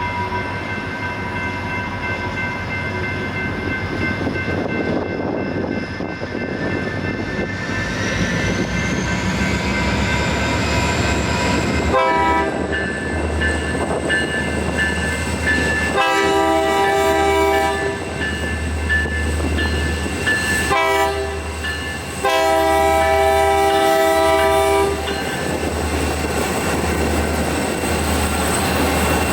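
A pair of EMD SD40-2 diesel locomotives, with 16-cylinder two-stroke engines, running past with a rising whine. From about twelve seconds in, the air horn sounds in a long, long, short, long pattern, the standard grade-crossing signal.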